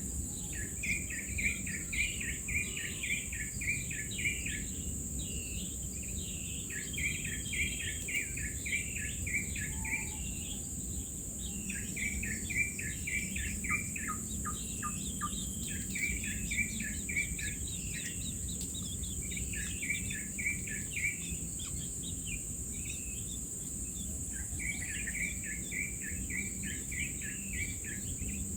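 A bird calling in repeated bouts of rapid, short chirping notes, each bout lasting a few seconds, over a steady high-pitched insect drone.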